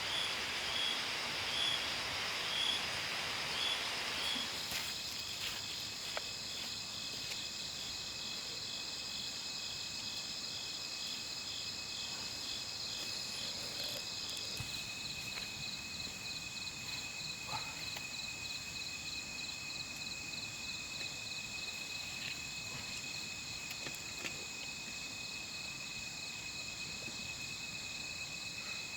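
Chorus of insects trilling, several steady high-pitched trills at once, with one pulsing chirp in the first few seconds. A soft hiss fades out about four seconds in, and a few faint clicks are heard.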